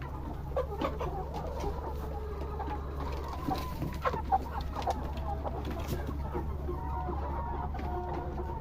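A flock of Rhode Island Red chickens clucking, many short overlapping calls with a few louder sharp ones, over a steady low hum.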